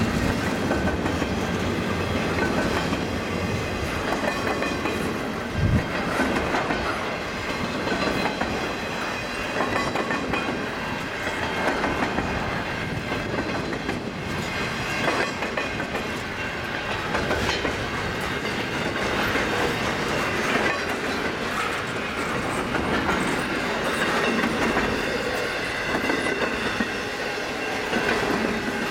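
Loaded double-stack intermodal well cars rolling past, steel wheels clicking over the rail joints in a continuous rumble, with faint high tones and a louder knock about six seconds in.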